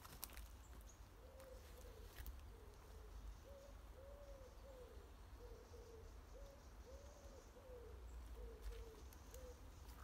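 Faint bird calls: a series of low, soft hooting notes, several arching up and down in pitch, given in short repeated phrases starting about a second in.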